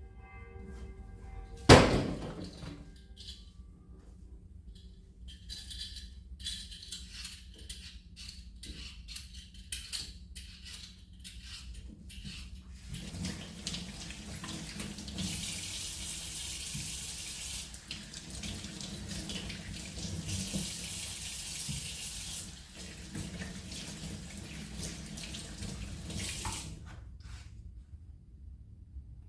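A sharp knock about two seconds in, then scattered clicks and clatter. Then water runs from a tap into a sink, with two louder stretches of a few seconds each, and stops near the end.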